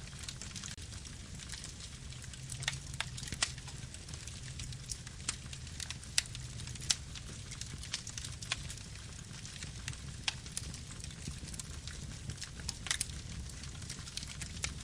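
Campfire burning: irregular sharp crackles and pops, several a second at uneven spacing, over a steady low rumble of the flames.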